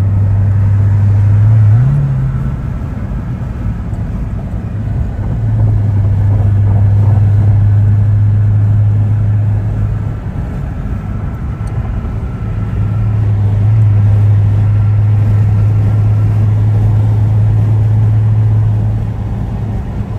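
A car's engine makes a strong, steady low drone while driving, over road noise. The note rises in pitch about two seconds in. It then drops away twice for a few seconds at a time before coming back.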